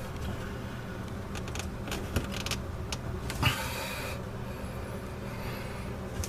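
Scattered clicks and scrapes of a plastic faucet mounting nut being turned loose by hand, with a louder knock about three and a half seconds in, over a steady low hum.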